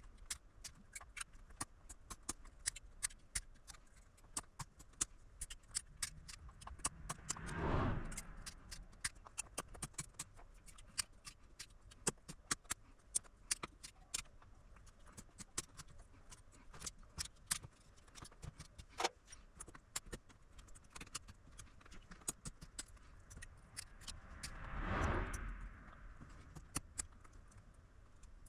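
Irregular small clicks and light clatter of hard parts and tools being handled at a workbench, several to the second, with two short rushing swells of noise, one about eight seconds in and one near the end.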